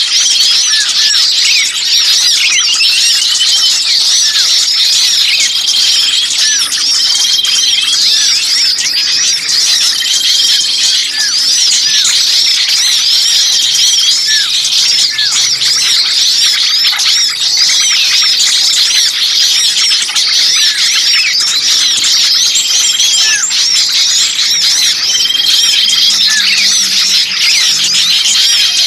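Dense, noisy chorus of many small songbirds chattering, squeaking and chirping at once, with a short level whistle note repeating every couple of seconds. These are agitated calls of small birds used as a trapping lure.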